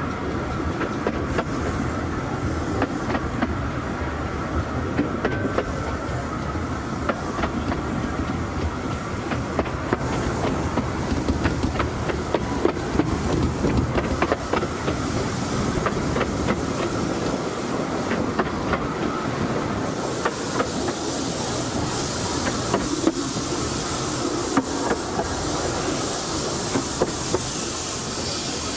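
Riding in a 15-inch gauge narrow-gauge train on the move: a steady rumble from the coach rolling along, with frequent wheel clicks and clatter over the rail joints. A higher hiss joins about two-thirds of the way through.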